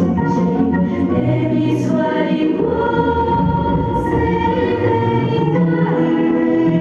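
Choral music: a choir singing long held notes that change every second or so.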